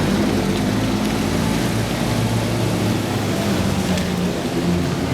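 A car engine running steadily, its deep exhaust note held under an even hiss.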